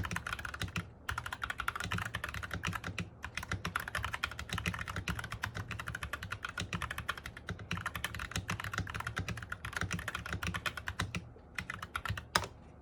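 Fast, continuous typing on an MK870 mechanical keyboard with Sky Panda switches and Cherry-profile dye-sub keycaps, its case filled with foam. The typing breaks off briefly a few times and stops about a second before the end, with a couple of last keystrokes.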